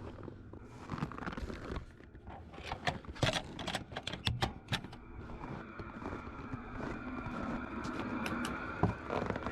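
Handling noise: a scattered run of clicks and knocks, then about halfway through a steady whirring hum begins underneath a few more clicks.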